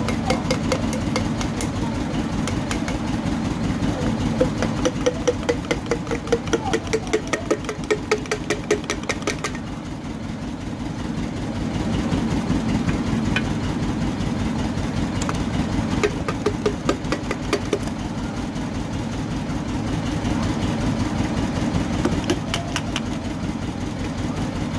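Toyota 2TR four-cylinder petrol engine idling steadily, with a fast, even ticking over the drone that is strong for the first several seconds, eases off, then comes back twice.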